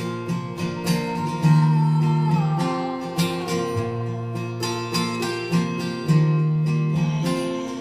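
Acoustic guitar playing an instrumental passage, strummed and picked chords over ringing bass notes.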